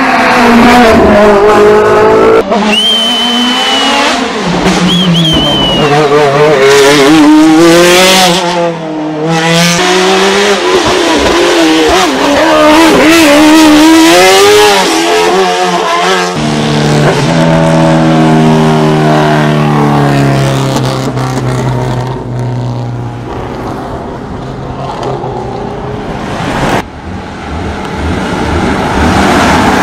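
Hill-climb race car engines at full throttle, the note climbing and dropping repeatedly through gear changes and corners, with a brief squeal a few seconds in. About halfway the sound changes abruptly to a note that falls steadily.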